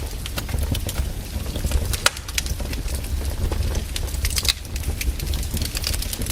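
Firewood burning: irregular crackles and sharp pops of the burning logs over a steady low rumble of the fire, with one louder pop about two seconds in.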